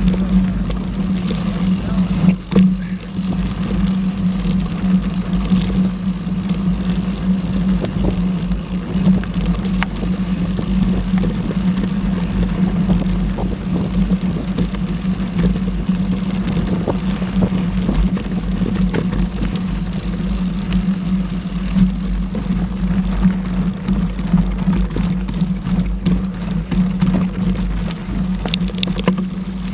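Steady rush of wind over the microphone of a mountain bike rider's camera, with rattles and knocks from the bike over rough trail.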